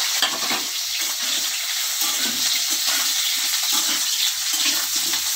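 Cauliflower and potato pieces sizzling steadily in hot oil in a steel kadhai, just added to the pan and starting to fry.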